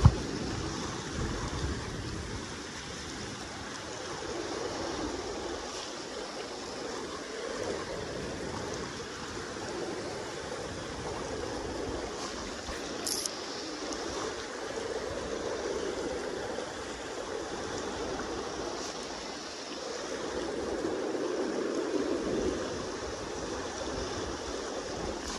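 Steady rush of the Kenai River's current flowing past the bank, swelling and easing slowly, with one brief sharp click about halfway through.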